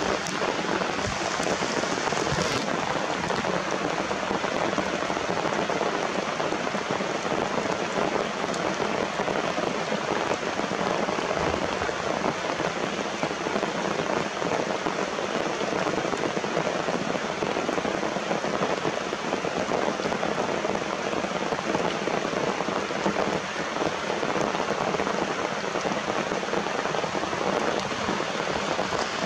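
Steady rain falling, an even, unbroken patter of drops on surfaces.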